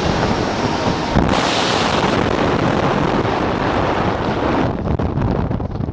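Loud rushing wind on the microphone, heard as a steady noise with no tone to it. Its hiss briefly grows brighter after about a second and dulls about five seconds in.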